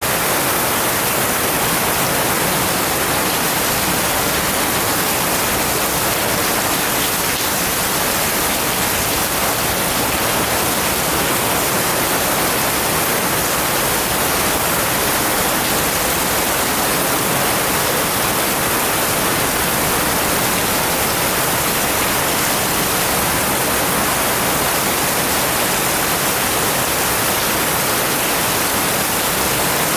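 Heavy rain falling on a wood as one steady, unbroken hiss, with no separate drops, gusts or other events standing out.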